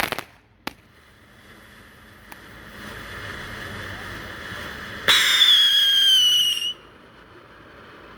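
Consumer firework display: the crackling stops at the start and a single sharp crack follows under a second in. About five seconds in, a loud shrill whistle from a whistling firework sounds, falling slightly in pitch. It lasts about a second and a half and cuts off abruptly.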